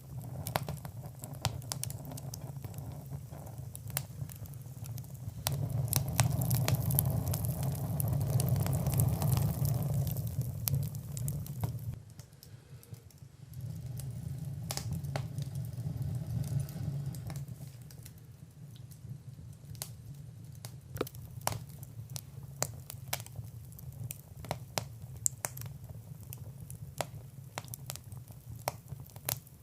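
Fire in a fireplace crackling, with frequent sharp pops over a low rumble of the flames. The rumble swells louder from about six to twelve seconds in, dips for a moment, then settles back.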